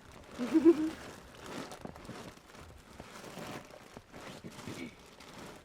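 Faint rustling and crinkling of a gear bag being rummaged through, with many small clicks, and a brief murmured voice about half a second in.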